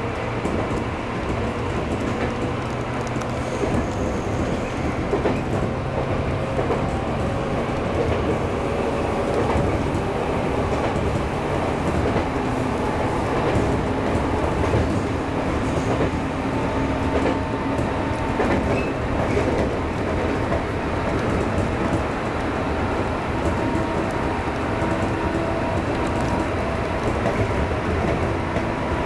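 JR 211-series electric train running, heard from inside the driver's cab: steady wheel-and-rail running noise with faint whining tones that slowly rise in pitch.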